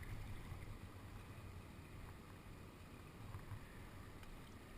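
Faint water sounds of a kayak being paddled, the paddle dipping and water lapping, over a low steady rumble.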